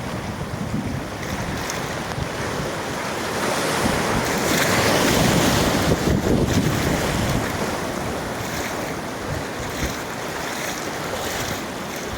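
Rushing noise of surf and wind, with wind rumbling on the microphone; it swells for a couple of seconds about four seconds in.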